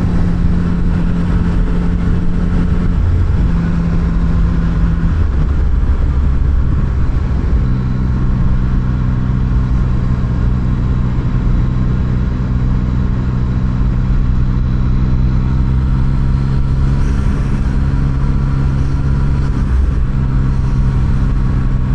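Yamaha MT-09 three-cylinder motorcycle engine running while riding, under a low rumble of wind noise. The engine note shifts pitch a few times in the first eight seconds, then holds steady.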